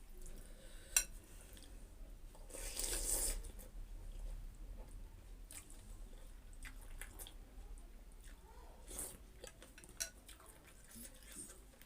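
Close-miked eating of chicken thukpa noodle soup: a few sharp clicks of utensils against the bowl, a slurp about three seconds in, and soft chewing and liquid sounds.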